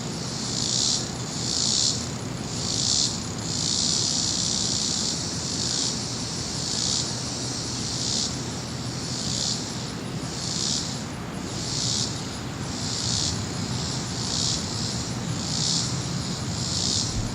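High insect chorus that swells and fades about once a second, with one longer stretch about four seconds in, over a steady low rumble from a jet aircraft flying somewhere to the east, out of sight.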